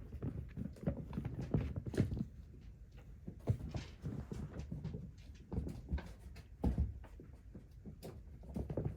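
Kittens romping on a floor: an irregular patter of soft thuds and knocks from paws and bodies tumbling and landing, with a few sharper clicks.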